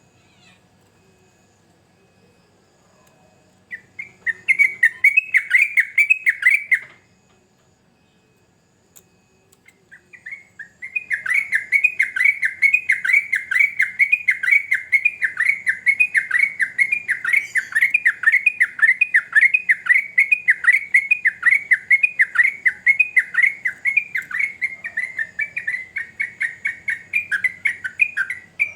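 Yellow-vented bulbul (trucukan) singing a long run of fast, repeated bubbly chirps. A short burst comes a few seconds in, then after a pause a long unbroken stretch of song.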